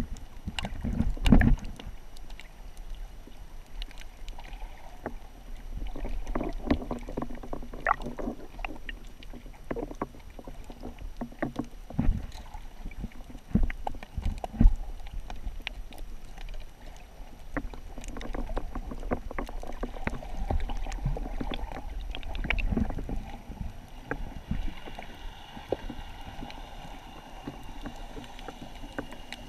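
Water sloshing and splashing with a low rumble and irregular knocks, as from a camera carried by a swimmer in the sea.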